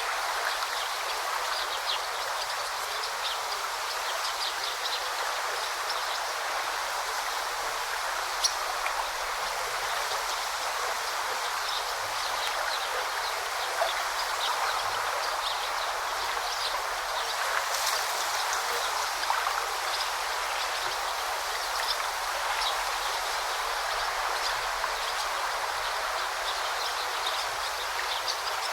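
A forest stream babbling steadily, with scattered short, high bird chirps over the water.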